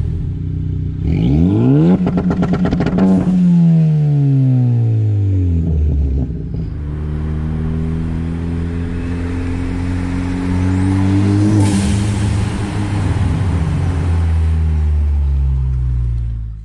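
Car engine revving: the pitch rises quickly and falls back, then climbs slowly and drops suddenly with a short hiss about twelve seconds in, before settling into steady running. The sound cuts off abruptly at the end.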